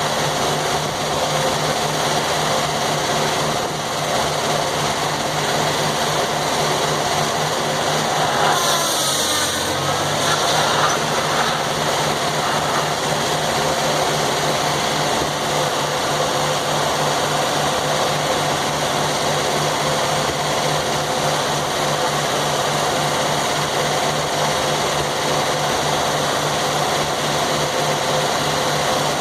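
Circular sawmill's engine running steadily. About nine seconds in, a brief higher hiss with a short wavering whine for about two seconds, then back to the steady running sound.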